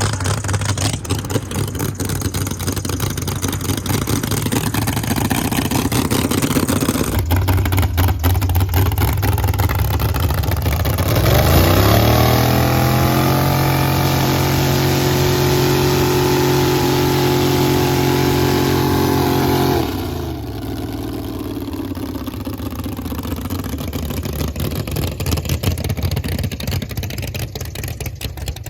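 Big-block 632 V8 in a Ford Crown Victoria doing a burnout in second gear: the engine runs low, climbs in revs about eleven seconds in and holds steady at high revs for about eight seconds with the tyres spinning, then drops back to a lower, rougher run.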